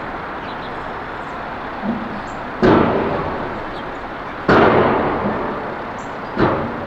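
Two sudden loud bangs about two seconds apart, each dying away over a second or so, with two lighter knocks, over steady road-traffic noise.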